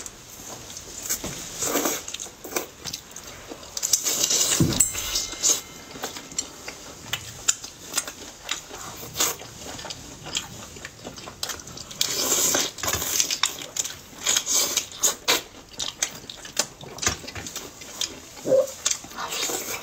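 Two people eating braised whole shrimp and rice close to the microphone: a steady run of short crackly bites and chewing sounds, with the odd clink of a spoon against a bowl.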